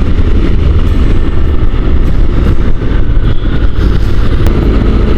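Steady, loud wind and road noise from a motorcycle on the move, picked up by a rider-mounted microphone.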